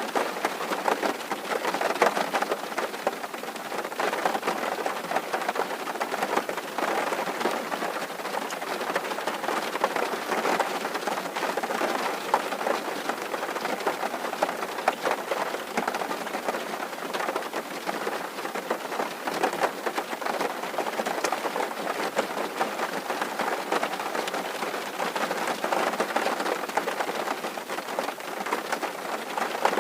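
Rain falling on a tin roof: a dense, steady patter of many small drops striking the metal sheeting.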